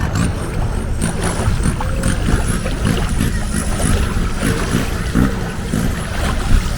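Longtail boat underway: steady engine rumble and rushing wind and water noise. A thin, high whine wavers up and down over the top throughout.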